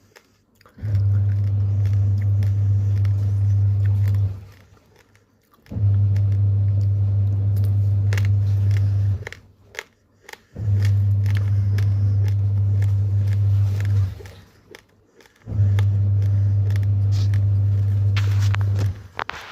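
Raw rice grains crunching between the teeth as they are chewed, in short sharp crackles. A loud steady low hum comes and goes in even blocks of about three and a half seconds, with pauses of about a second and a half between them.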